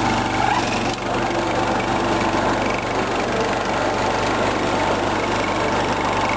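The freshly rebuilt 10 hp Kohler K241 single-cylinder engine of a 1977 John Deere 210 garden tractor, running steadily.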